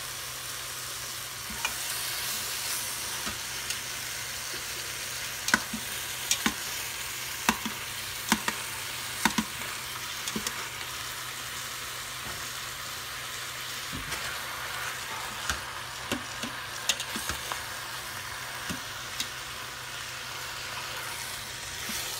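Chicken pieces sizzling in hot avocado oil in a stainless steel Instant Pot inner pot on the high sauté setting, a steady frying hiss. Sharp clicks of metal tongs against the pot come at intervals as the pieces are placed and moved.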